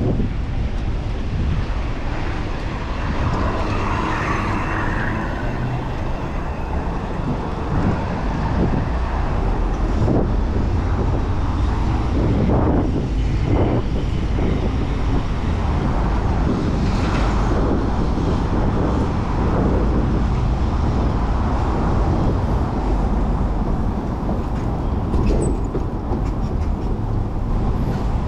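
Steady wind rumble on the microphone of a moving bicycle, with city road traffic around it.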